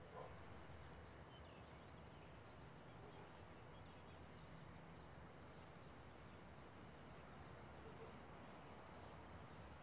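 Near silence: faint outdoor background hiss with scattered faint chirps of distant birds.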